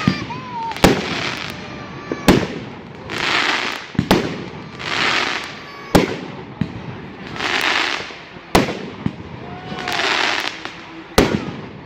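Fireworks going off: six sharp bangs, roughly one every two seconds, each of the later ones preceded by a hissing swell of about a second.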